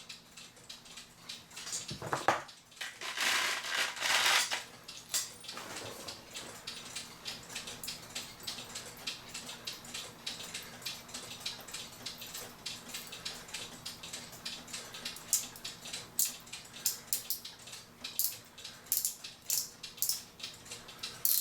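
Cuckoo clock weight chain being fed into the movement's chain wheel and wound through, with a run of quick, irregular clicks from the ratcheting wheel and chain links. The clicks come more thickly in the second half, after a brief rustle a few seconds in.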